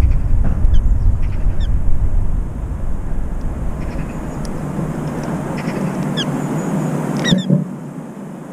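Birds chirping in short, high notes, with a louder cluster of calls and a click about seven seconds in. Under them runs a low rumble that eases after about two seconds and drops away near the end.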